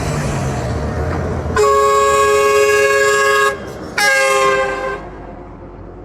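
A vehicle horn sounds twice: a long, steady blast of about two seconds, then after a short gap a shorter blast of about a second. A low vehicle engine rumble comes before the first blast.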